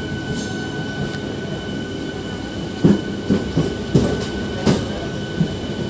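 MEMU electric passenger train running, heard from on board: a steady rumble of wheels on rail with a steady high whine. From about three seconds in, a quick run of about five sharp knocks as the wheels pass over rail joints.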